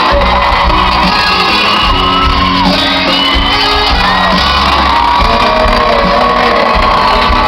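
Live band music playing on, heard from within a concert audience, with voices in the crowd shouting, whooping and singing along over it.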